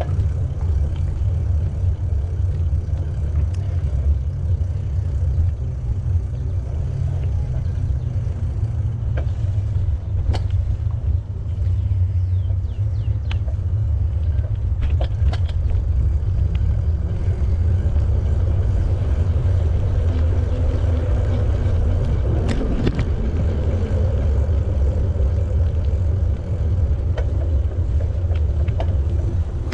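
Steady low rumble of wind buffeting the microphone of a camera on a moving bicycle, with scattered sharp clicks and rattles.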